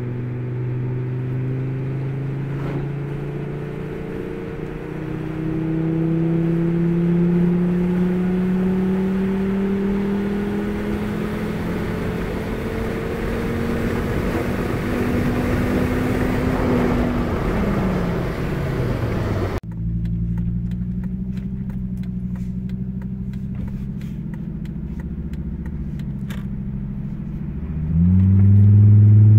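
Turbocharged Volvo engine, heard from inside the cabin, pulling hard through a gear with its pitch rising steadily for about 17 seconds, then dropping as the throttle is lifted. After a sudden cut it runs steadily with light clicks, and near the end it picks up again, louder. The owner says this engine is making low, erratic boost.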